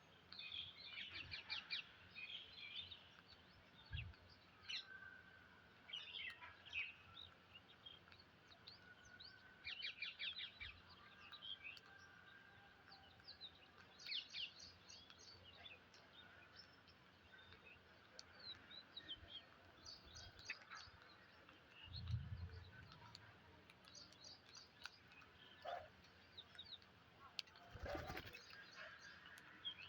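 Psittacula parakeets giving faint, repeated trains of quick high chirping calls, with a few soft low thumps along the way.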